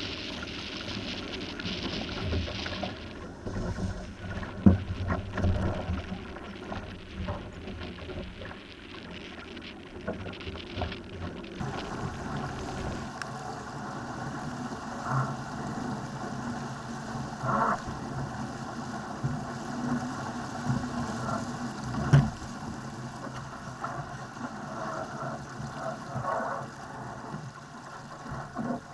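Wind on the microphone and water rushing and splashing along a Laser dinghy's hull as it sails, with a few sharp slaps of the hull against waves.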